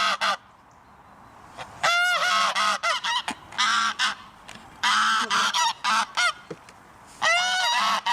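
Geese honking in loud bouts of several calls, with short pauses between the bouts.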